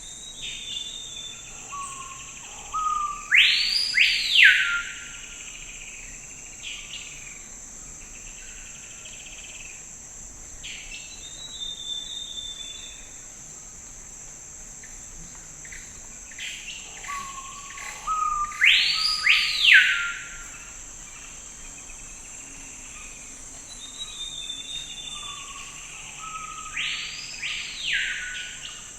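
Forest ambience: a steady high insect drone, with a bird singing a loud phrase of quick rising and falling sweeps three times and softer chirps in between.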